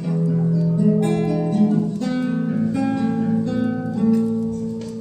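Acoustic guitar strumming chords in an instrumental passage, fading down near the end.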